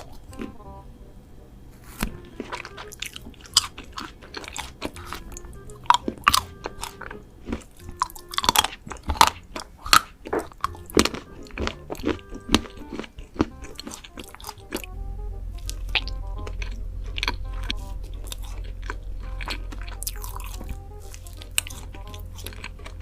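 Crunchy bites and chewing of food, heard close to the mic as a string of sharp irregular crunches, over quiet background music.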